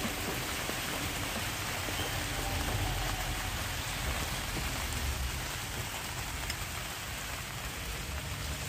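Steady rain falling, an even hiss that holds without break.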